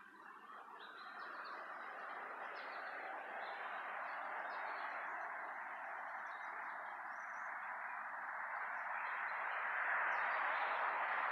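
A distant approaching freight train, led by GE B23-7 diesel locomotives, making a broad rushing sound that grows steadily louder. Birds chirp briefly over it now and then.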